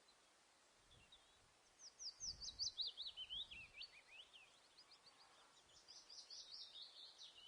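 A small songbird singing two quick phrases of high chirps, each run falling in pitch, the first about two seconds in and the second from about five seconds, over a faint outdoor hiss.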